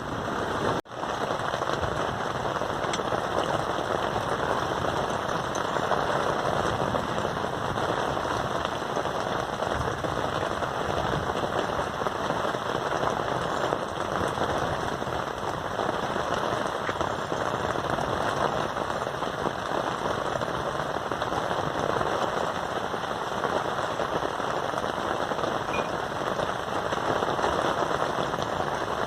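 Steady rain falling, a dense rapid patter of drops striking a surface, with a brief dropout about a second in.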